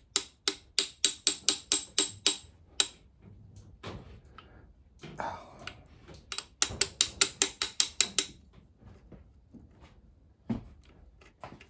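Socket ratchet wrench clicking in two quick runs of about four or five clicks a second, the pawl ratcheting on the back-stroke, with a single knock near the end.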